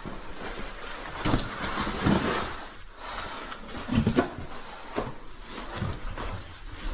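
Irregular scuffs and knocks of cavers' boots and gear on rock, over a steady rush of water from a distant cave waterfall swollen by rain.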